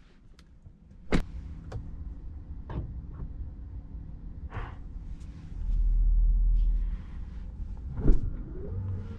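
Car body sounds from a Tesla Model 3: several sharp clicks, a low motor hum lasting just over a second, then a thump near the end, typical of a power window moving and a door shutting.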